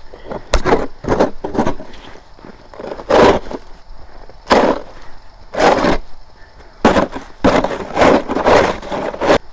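Snow shovel scraping and crunching into snow with ice chunks in it, about a dozen irregular strokes, the longer scrapes lasting about half a second, with a sharp click about half a second in.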